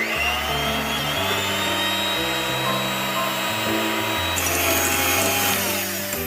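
A small electric kitchen appliance motor whirs up to speed with a high whine, runs steadily for about six seconds, and winds down near the end. Background music with a stepping bass line plays underneath.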